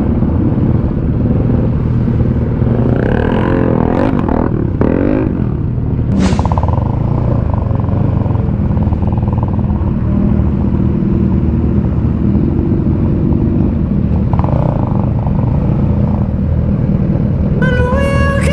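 Motorcycle engine running steadily at low revs among other road traffic, with a brief sharp rising and falling tone about six seconds in. Background music comes in near the end.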